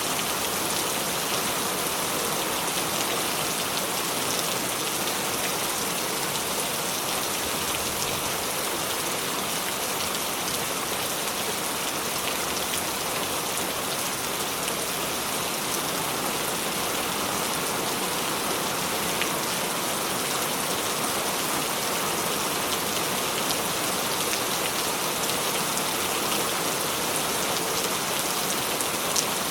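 Steady, heavy rain falling, a continuous hiss with scattered individual drop ticks.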